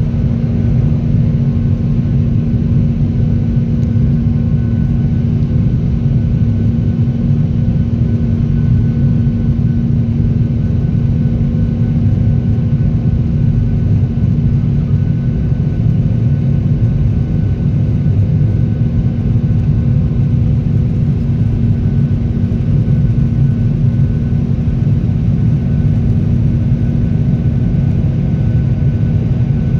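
Jet airliner's engines heard from inside the cabin during takeoff: a loud, steady, low rumble with a constant hum through it.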